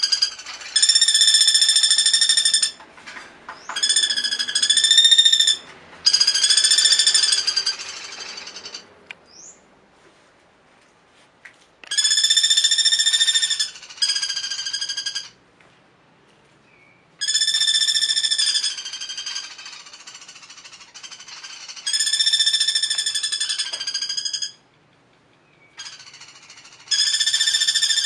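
An animal call, a rapid, buzzy, steady-pitched trill, repeated in about ten bursts of one to two seconds each with short pauses between them.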